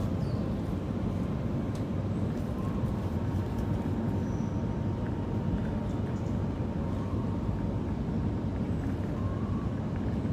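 Steady low rumble of city outdoor background noise, with a couple of faint short high chirps.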